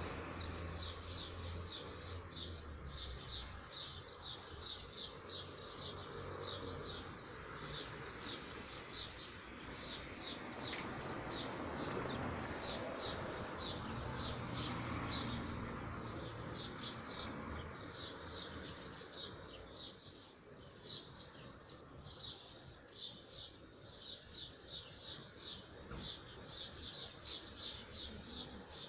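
A small bird chirping over and over in quick, even succession, about three or four short high chirps a second with only brief pauses, over a steady low background hum.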